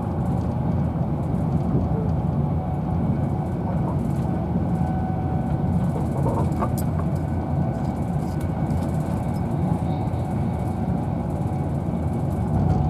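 Steady rumble and rush of a Virgin Trains Class 390 Pendolino electric train running at speed, heard from inside a passenger coach.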